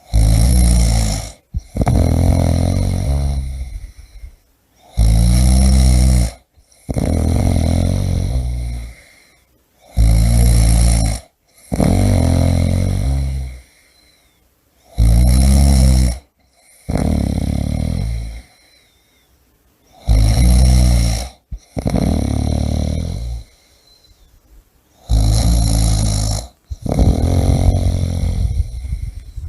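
A person snoring heavily: each cycle is a short, loud snore followed by a longer, fading breath, repeating about every five seconds, six times.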